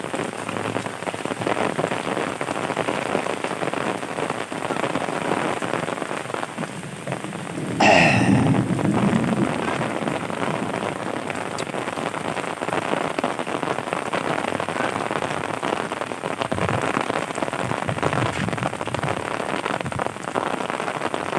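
Heavy rain falling steadily, with one sudden louder sound about eight seconds in that lasts a second or two.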